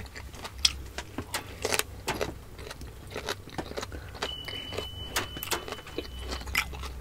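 Wet chewing and mouth clicks from people eating steamed siomai dumplings: many small irregular clicks. A thin high steady tone sounds for about two seconds midway.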